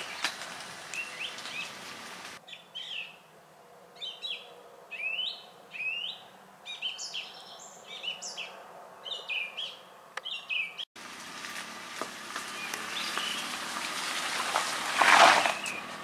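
Small songbirds chirping in short repeated notes over a light outdoor hiss. About a second before the end, a brief loud rush of noise.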